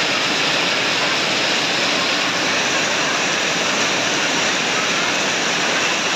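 Heavy rain pouring steadily in a rainstorm, a dense, even hiss.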